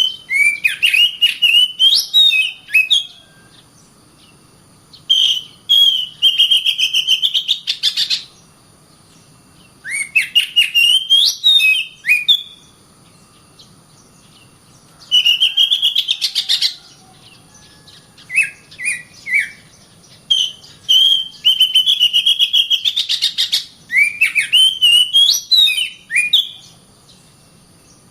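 Oriental magpie-robin (kacer) singing in bursts: seven phrases of two to three seconds, each a quick run of high chattering notes with a few sliding whistles, separated by short pauses.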